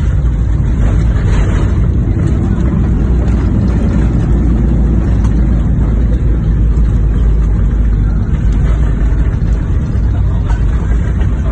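Airliner landing: a loud, steady rumble and roar of the engines and the plane rolling on the runway.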